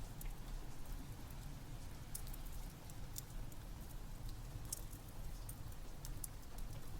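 Steady rain with a wood fire crackling, sharp little pops coming at irregular moments over a low, even rumble.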